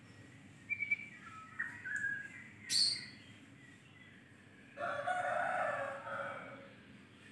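Birds calling over a low steady hum: a few short chirps, a sharp high chirp near three seconds in, and one longer call of about a second and a half starting near five seconds in.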